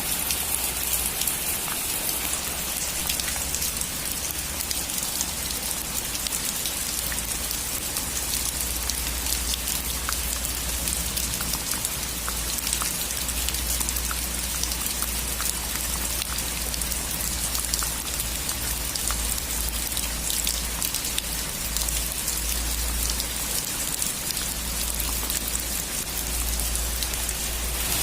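Steady rain falling on a roof, an even hiss with many separate drops ticking through it, over a low steady rumble.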